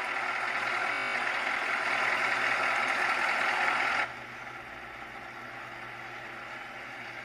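Scania Streamline truck running, with a loud rushing noise over a steady low hum. The rushing noise cuts off suddenly about four seconds in, leaving a quieter steady drone.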